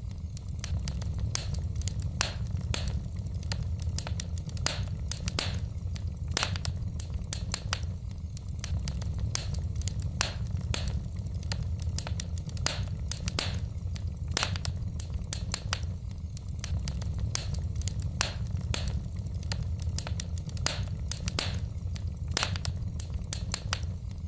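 Wood fire in a fireplace crackling: irregular sharp snaps and pops, several a second, over a steady low rumble.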